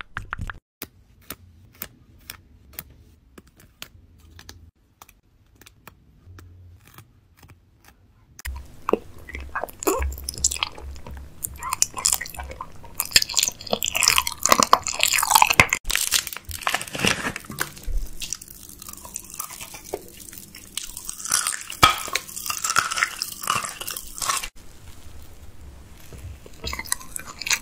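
Close-miked ASMR eating sounds: loud, crisp crunching bites and chewing of food held right at the microphone. They are preceded by about eight seconds of sparse, soft clicks.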